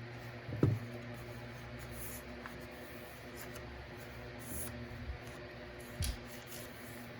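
Quiet handling of paper on a craft table: faint taps and rustles, with a dull bump about two thirds of a second in and another about six seconds in, over a steady low room hum.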